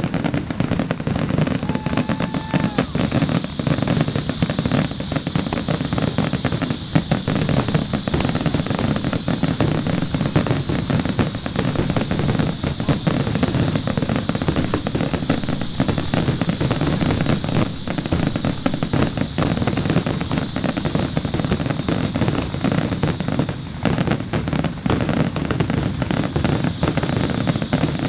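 Public fireworks display: a continuous, dense barrage of bangs and crackling with no pause.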